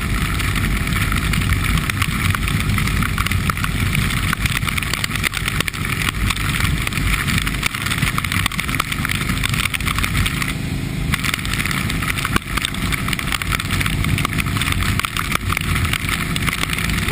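Motorcycle riding along, its engine running steadily under a constant rush of wind and road noise on the microphone.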